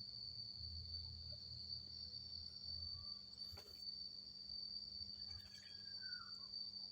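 Cricket chirping in a steady, unbroken high-pitched trill, with a faint short falling chirp about five and a half seconds in.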